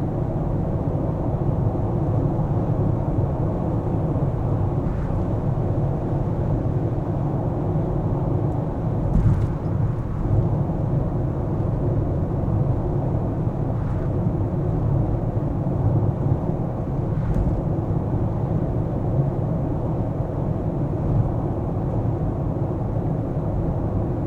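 A car's steady low road and engine rumble while driving, with a few faint knocks, the clearest about nine seconds in.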